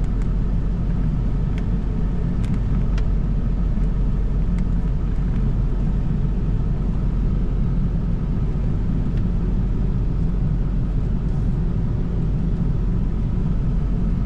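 Truck engine running steadily at low speed, a continuous low rumble, while backing a boat trailer down a ramp. A few faint light ticks sound over it.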